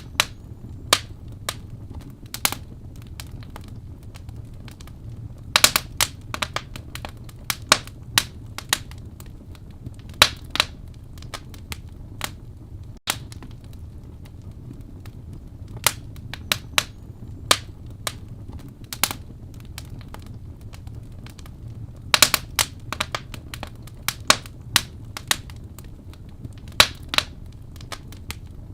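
Wood fire burning in a fireplace: sharp, irregular crackles and pops over a steady low rush of flame, with small clusters of pops about six seconds in and again a little past twenty-two seconds.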